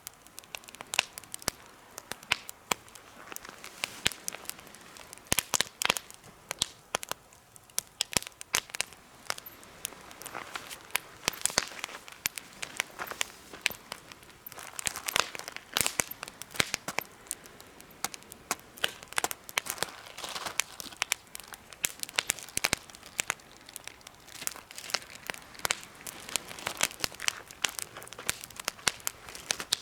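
Campfire crackling in a homemade fire stand: many sharp, irregular pops and snaps over a soft hiss.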